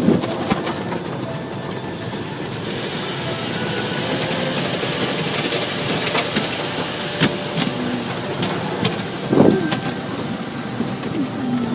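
Automatic car wash brushes scrubbing over the car with water spraying: a dense, steady hiss full of quick slaps and rattles, with the hiss brighter for a few seconds from about two and a half seconds in.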